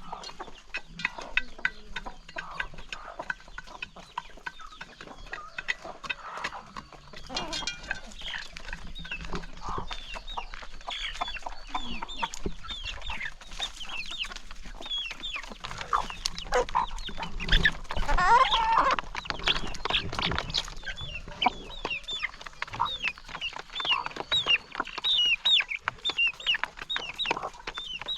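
A flock of chickens clucking and calling while they feed, with many short, high calls overlapping and many brief clicks throughout. The calls grow louder and busier about two-thirds of the way through, then settle back.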